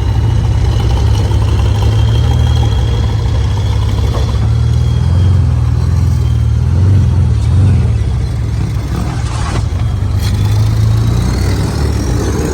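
Diesel truck engine running hard under load with small swells in revs, and a thin high whine over it that rises near the end.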